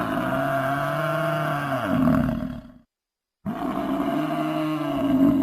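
A big cat's roar, played twice in a row: a long, pitched call that drops in pitch near its end, a short silent gap, then the same roar again.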